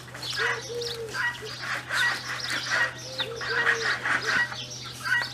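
A dove cooing in short two-note phrases, about a second in and again past three seconds, with small birds chirping throughout.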